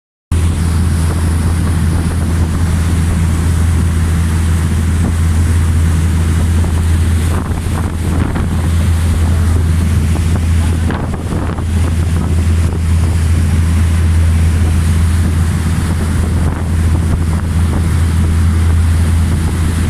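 Boat under way: its engine running with a steady low drone, over wind buffeting the microphone and the rush of water.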